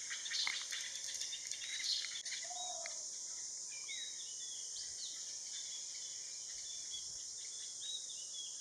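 Garden ambience: a steady high insect drone with scattered chirps and short calls of small birds throughout.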